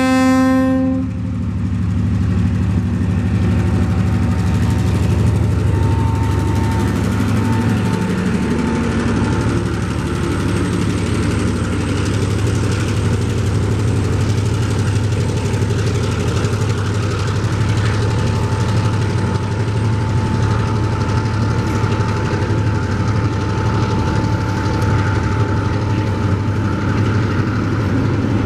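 A diesel locomotive's horn ends about a second in, then a TasRail DQ class diesel locomotive runs past with a loud, steady engine rumble, followed by the rolling of empty container wagons.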